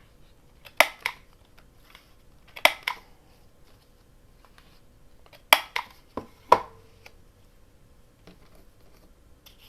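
Corner rounder punch cutting the corners of a paper tag: a few sharp clicks, several seconds apart, some in quick pairs as the punch presses down and springs back.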